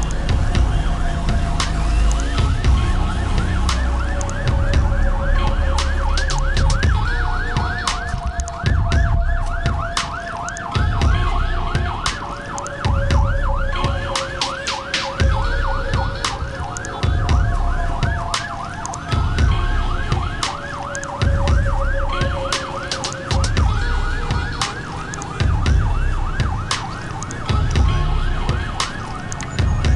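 Several emergency-vehicle sirens sounding at once. A fast yelp siren warbles several times a second, while a two-tone siren switches between a lower and a higher note every couple of seconds, over a pulsing low rumble.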